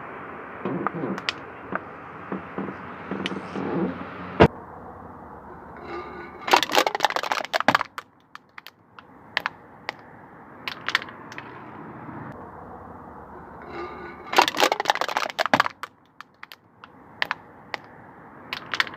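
Car tyre rolling over and crushing crunchy objects. There is a single sharp crack about a quarter of the way in, then two bursts of rapid crackling and snapping, one about a third of the way through and one about three quarters through, over a steady low background noise.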